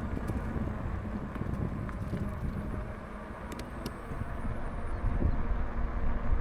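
Wind rushing over the microphone with a low, steady rumble from riding an e-bike along a paved path. It grows louder about five seconds in.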